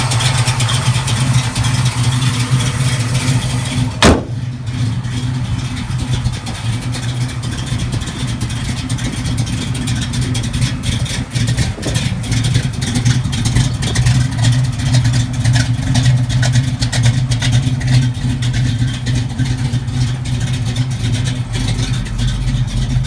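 1969 Chevrolet Camaro's original DZ 302 V8 idling steadily at about 800 rpm. A single sharp knock sounds about four seconds in.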